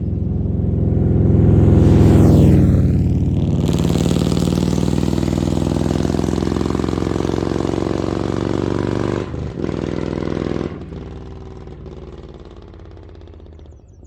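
Harley-Davidson Milwaukee-Eight V-twin with an SS 475 camshaft, heard through Mutazu 2.0 megaphone slip-on mufflers while the bike is ridden. The engine builds to a loud peak about 2 s in, then runs steadily with wind rushing over the microphone. There is a brief break about 9 s in, and after about 11 s it is quieter as it eases off.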